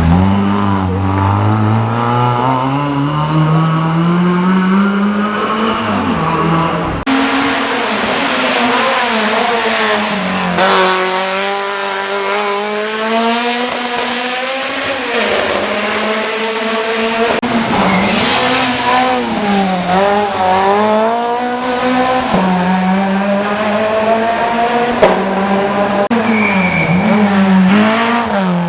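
Race car engine at full throttle on a hillclimb run, its pitch climbing through each gear and dropping at the upshifts about 7 and 10 seconds in, then falling and rising again several times as it slows and accelerates through corners.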